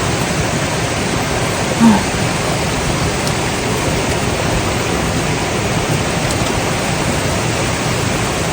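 Valley stream running steadily, an even rush of water.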